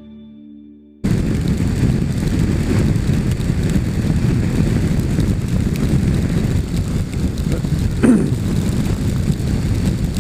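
A motorbike on the move, heard through its rider's camera microphone: steady wind buffeting with the engine running underneath, cutting in abruptly about a second in. A short falling tone comes through about eight seconds in.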